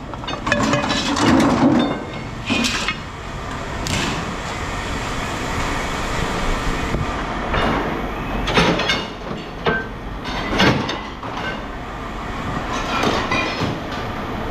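Scrap metal clanking and knocking at irregular intervals as pieces are handled and dropped, over a steady low rumble.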